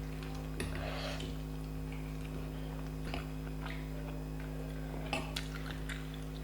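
Faint eating sounds of puri and chole eaten by hand: soft chewing with scattered small mouth clicks, over a steady low electrical hum.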